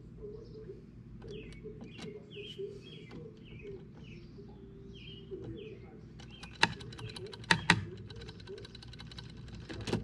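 A small bird chirping over and over, one short call about every second. Light metallic clicks and taps come from hands and a small tool working on a DW 5000 double bass pedal's drive shaft, the sharpest about six and a half and seven and a half seconds in.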